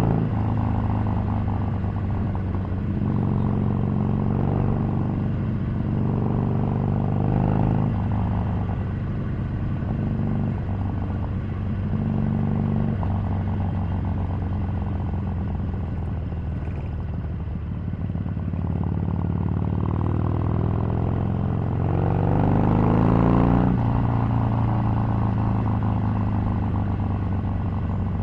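Harley-Davidson Sportster 883's air-cooled V-twin engine running under way, its pitch rising and falling with throttle and gear changes. A rev climbs to the loudest point a little past two-thirds of the way through.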